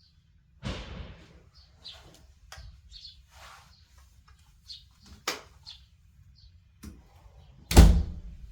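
Scattered knocks and scrapes of things being handled and moved during house cleaning, the loudest a heavy thump near the end, with birds chirping.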